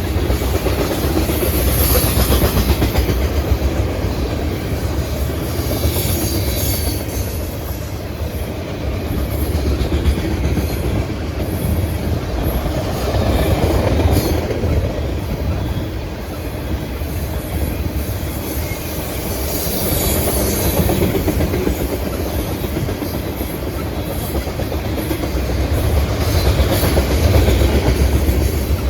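A loaded ethanol freight train of tank cars rolling past: a steady rumble of wheels on rail with a clickety-clack over the rail joints, swelling and easing as the cars go by.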